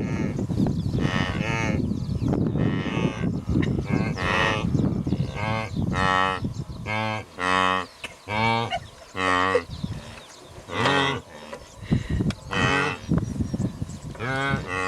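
Wildebeest calling: a long run of short, nasal, moo-like grunts, about a dozen, some overlapping as if from several animals. A low rumble lies under the first half and fades about halfway.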